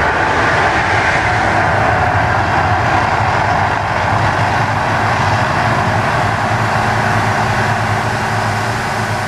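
Loud, steady rumbling roar of the Mirage volcano attraction erupting, easing off slightly near the end.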